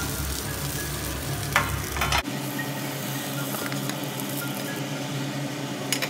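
Uttapam frying in oil on a hot iron tawa: a steady sizzle, with a few sharp clinks of utensils on the griddle, a pair about a second and a half to two seconds in and another near the end.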